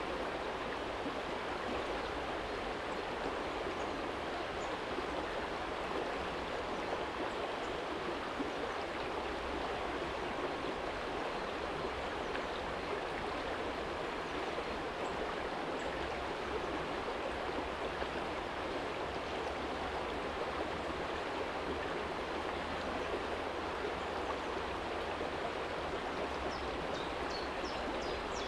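Small shallow stream running steadily over a stony bed. A few faint high chirps come near the end.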